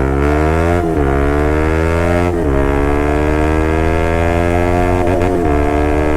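Bajaj Pulsar RS200's single-cylinder engine and exhaust under full-throttle acceleration. The engine note climbs steadily and drops sharply three times, about one, two and a half, and five seconds in, as the rider shifts up through the gears.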